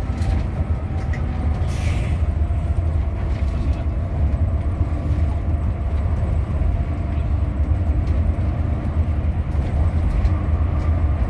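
Hino RM 280 coach bus running on the road with a steady low rumble and faint steady whines. There is a short hiss about two seconds in.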